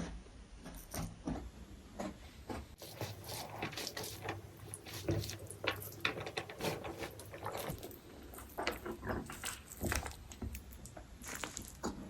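Close-miked eating sounds: a person chewing food, with irregular wet mouth clicks and smacks.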